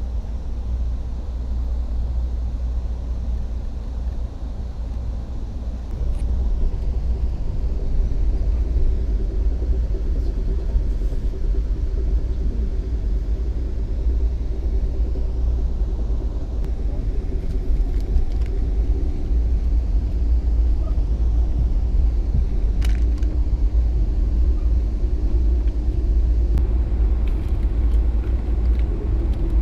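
Passenger train running along the track, heard from inside the carriage: a steady low rumble that grows a little louder about six seconds in, with a faint steady hum and a few light clicks over it.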